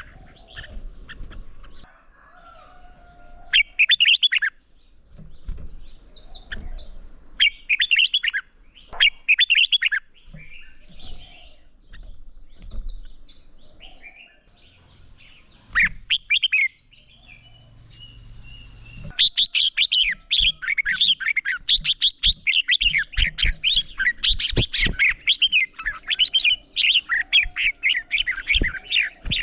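Red-whiskered bulbul song: short, quick warbling phrases with gaps between them, turning into a fast, near-continuous run of song about two-thirds of the way through.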